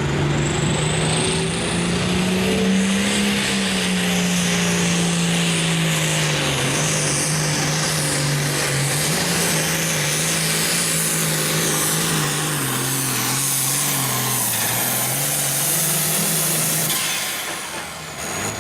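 John Deere 4440's six-cylinder turbo diesel at full throttle pulling a sled, loud and steady. Its pitch rises for the first few seconds, then sinks slowly as the sled loads the engine down, with a high whistle climbing at the start. Near the end the engine drops off as the throttle is let go.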